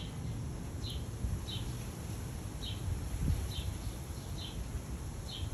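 A small bird repeating a short, high, falling chirp about once a second, over a steady low background rumble.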